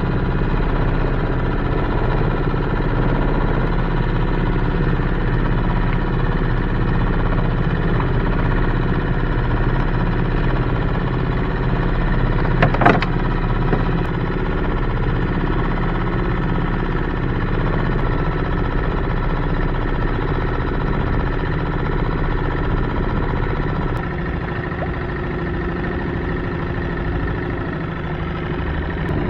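Yamaha 2 hp outboard motor running steadily at constant throttle, pushing a mini boat along. There is one brief sharp sound about halfway through.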